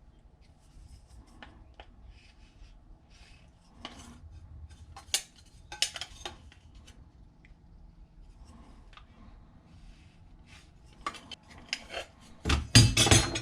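A notch being cut out of a Wiremold switch box with a hand tool: scattered sharp clicks and snaps with light handling knocks, and a louder run of clattering strokes near the end.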